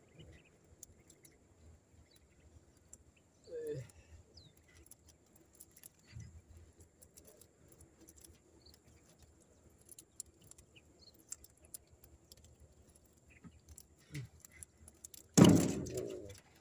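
A bird cooing now and then in short low calls over a quiet background with faint scattered clicks, and a sudden loud clatter about a second before the end.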